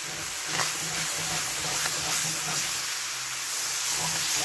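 Ground beef and a ketchup sauce sizzling in a hot cast-iron skillet, a steady frying hiss, while a wooden spatula stirs through the mixture.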